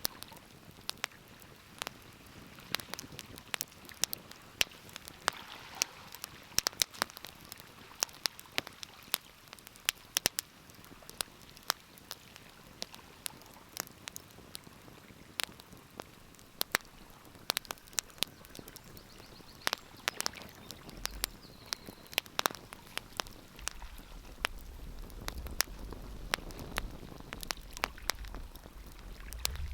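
Wood fire crackling in a fireplace: irregular sharp pops and snaps, often several a second, over a soft hiss. A low rumble joins in about two-thirds of the way through.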